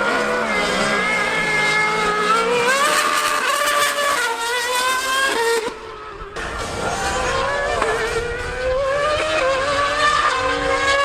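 Formula One car and superbike engines at full throttle in a drag race, each climb in pitch falling back at a gear change and climbing again. The sound drops away briefly about six seconds in.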